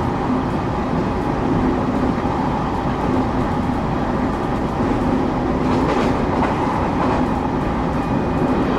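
Steady running noise inside a moving train car: wheels on the rails and a low hum, with a few light knocks about six seconds in and a thin high whine that starts near the end.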